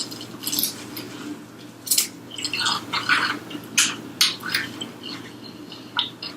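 Close-up eating sounds of fried chicken being chewed: irregular crunchy crackles and wet mouth clicks.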